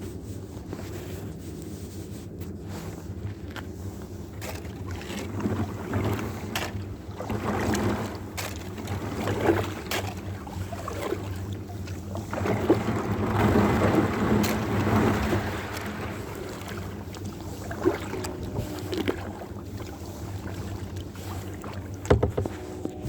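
Water sloshing and splashing around a kayak as it is paddled, swelling in stretches, with a few sharp knocks and wind on the microphone.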